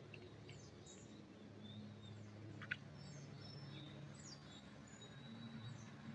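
Faint birds chirping in a pine forest: scattered short, high calls and quick sweeps over a low, steady hum, with one sharp click a little under three seconds in.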